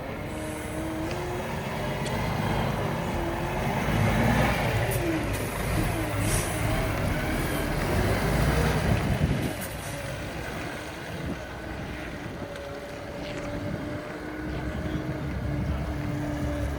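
DAF CF440 truck's diesel engine running, revved up and down for several seconds in the middle, then settling back to a steady idle. A few short hisses sound during the revving.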